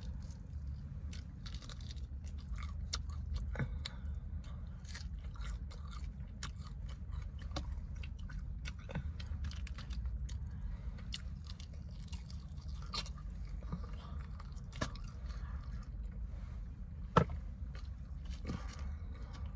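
Close-up chewing and biting of fried chicken wings: irregular wet crunches and small clicks, with one sharp, louder click near the end, over a steady low rumble.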